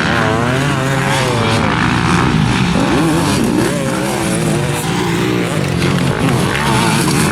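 Several motocross dirt bikes racing, their engines revving up and down together so the pitches keep rising and falling and overlapping.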